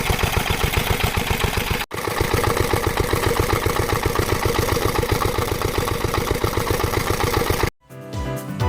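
Yanmar K3 single-cylinder stationary diesel engine running steadily with an even, rapid beat. The sound breaks off for an instant about two seconds in, and it stops near the end, where music comes in.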